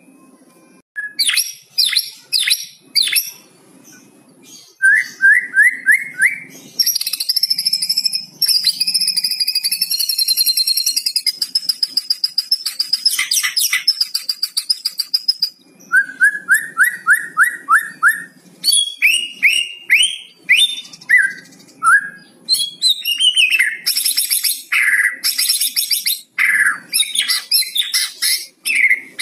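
White-rumped shama calling in its crackling 'kretekan' style: quick runs of short repeated chirps, clicking rattles, and a long wavering high whistle from about seven to fifteen seconds in.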